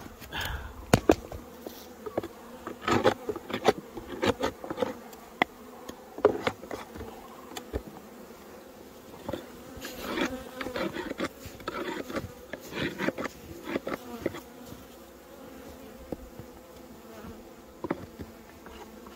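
Honey bees buzzing in flight close by, a steady hum, over many sharp clicks and knocks that thin out toward the end.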